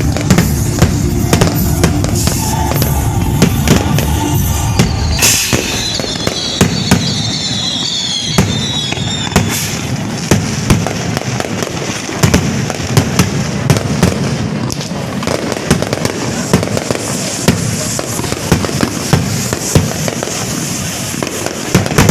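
Fireworks and firecrackers going off in a dense run of bangs and crackles, with music playing under them in the first few seconds.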